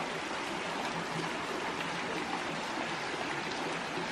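Water of a small rocky creek running over a rock slide into a pool: a steady, even rush.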